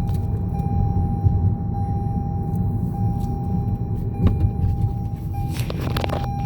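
Car driving at road speed, heard from inside the cabin: a steady low rumble of road and tyre noise with a thin, steady whine above it.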